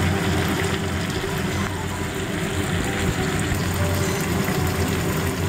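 Chicken pieces frying with masala in oil in a non-stick pan, a steady sizzling. The meat is being fried down with the spices (kasha), the stage where the oil separates from the masala.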